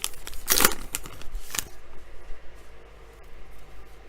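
Trading cards and a foil pack wrapper being handled: two short paper-like rustles, about half a second and a second and a half in, then quieter sliding of cards.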